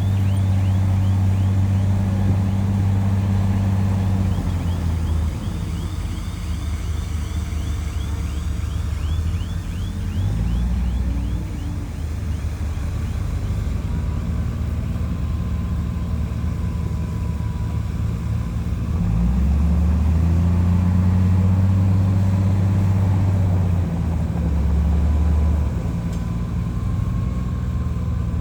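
Bulldozer's diesel engine working under load, its low drone rising and falling as the load changes. A rapid, repeated high squeak from the running gear sounds through the first ten seconds or so.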